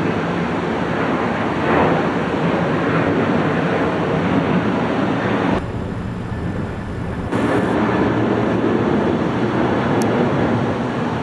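Steady roar of jet airliner engines at the airport, even and noisy throughout, briefly duller in the highs about six seconds in.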